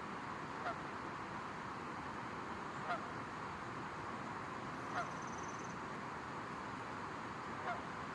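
A goose honking four times, single short honks about two seconds apart, over a steady outdoor hiss.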